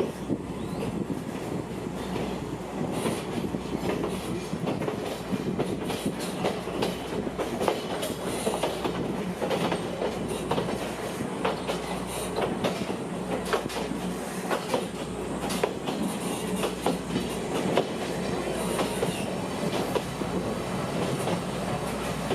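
Kominato Railway's Satoyama Torokko trolley train running along the line: a steady rumble of wheels on rail with a constant low hum and many sharp clicks and knocks from the wheels and running gear.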